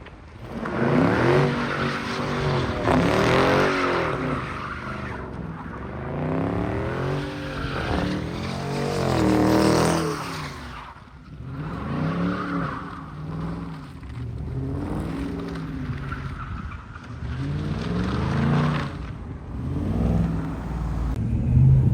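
Car engine revving hard over and over, its pitch climbing and falling repeatedly, with tires squealing on the pavement.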